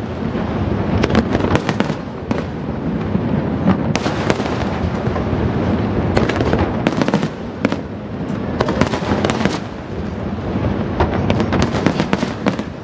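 Fireworks finale: a dense, continuous barrage of aerial shell bursts, with many sharp cracks and crackles, heaviest in clusters about a second in, around the middle and near the end.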